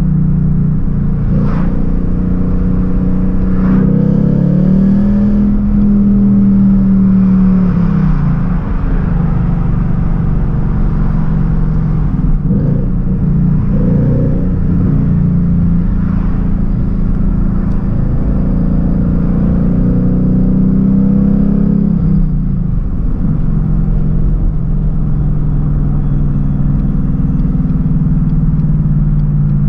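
2019 Ford Mustang GT's 5.0-litre V8 heard from inside the cabin while driving, its note rising as the car accelerates a few seconds in and again before the twenty-second mark, dropping back each time the throttle eases, over steady road noise.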